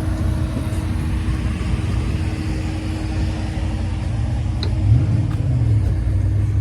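A car engine idling, a steady low rumble that swells briefly about five seconds in.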